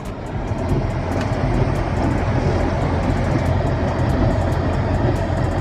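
Hemi V8 engine running at a steady cruise, a constant low drone, with an even hiss of tyres and rain on a soaked road, heard from inside the moving vehicle.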